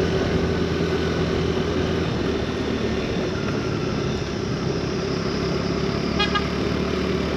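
Motorcycle running at road speed, with steady engine hum and wind and road noise. A short vehicle horn toot sounds about six seconds in.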